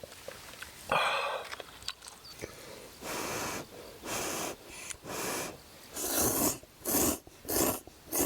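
A person slurping miso ramen noodles: a run of short hissy slurps, coming quicker, about two a second, toward the end.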